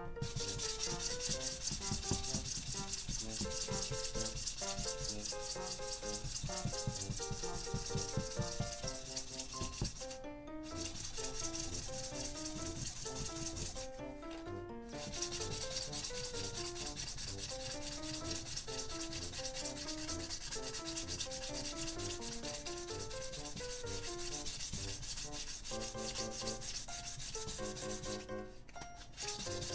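Hand sanding of a small scale-model part, quick back-and-forth strokes in steady succession, with three short pauses.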